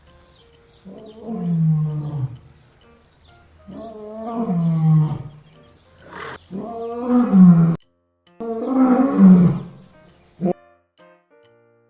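Lion roaring: a series of five long, deep calls, each a second or two long and falling in pitch, with short pauses between them. Faint music plays underneath and is all that remains near the end.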